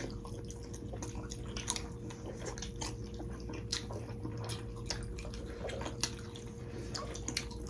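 Close-miked eating: chewing of beef momos with scattered small wet mouth clicks. A faint steady hum runs underneath.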